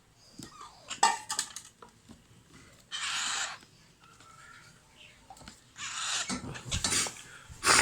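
Alexandrine parakeet chicks giving short raspy, hissing begging calls during feeding, three bursts of about half a second each. A few sharp clicks come about a second in.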